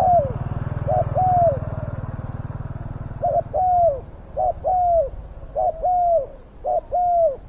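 Spotted dove cooing over and over: a short note, then a longer coo that falls in pitch, repeated about six times with short gaps between.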